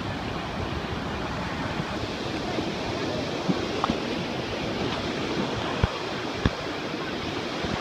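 Ocean surf washing steadily in a continuous rush, with a few brief knocks in the middle.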